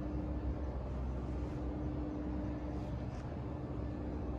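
Steady low background hum with a faint steady tone: indoor room tone.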